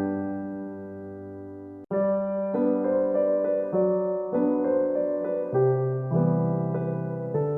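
Background piano music, slow sustained notes and chords. The music cuts out abruptly for an instant about two seconds in, then picks up again.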